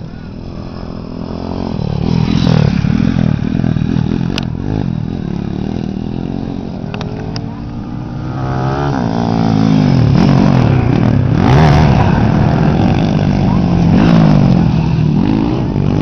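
Motocross bike engines revving hard, their pitch climbing and dropping again and again as the riders accelerate and shift. It grows louder about two seconds in, eases near the middle, then is loud again.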